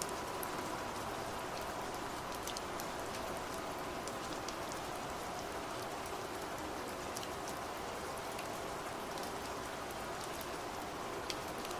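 Steady rain falling, with a constant hiss and scattered close drops ticking on a surface.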